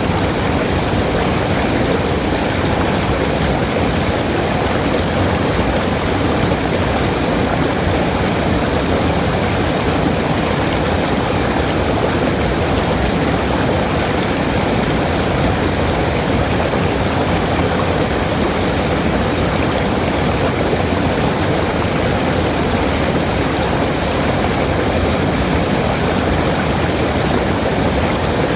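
Waterfall: a steady, even rush of falling water, fullest in the low and middle range, with no change.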